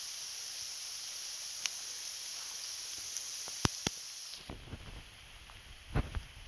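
Steady high-pitched outdoor hiss with a few sharp clicks. About four seconds in the hiss drops away and low wind rumble on the microphone takes over, with a couple of knocks near the end.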